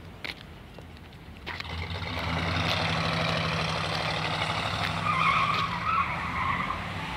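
The 430 cubic-inch V8 of a 1967 Buick Wildcat being driven across a lot. Its engine sound swells about a second and a half in as the car pulls away, and a harsher, higher sound joins it for the last two seconds.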